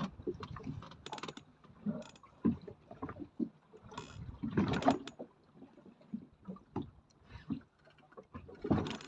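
Small speedboat rocking in choppy water: irregular knocks and splashes against the hull, the loudest cluster about halfway through.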